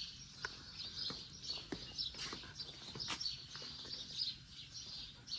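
Small birds chirping and twittering, a steady chorus of many short, high calls.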